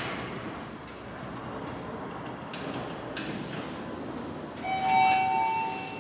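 Thyssenkrupp passenger elevator riding up with a steady low noise, then near the end a two-tone arrival chime: a lower tone followed closely by a higher one, both held for about a second.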